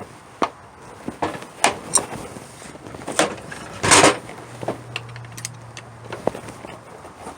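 Sharp metal clicks, knocks and clatter as the cutting head and dies of a DeWalt threaded rod cutter are handled and fitted, with one louder, longer clatter about four seconds in. A faint low hum follows for about two seconds.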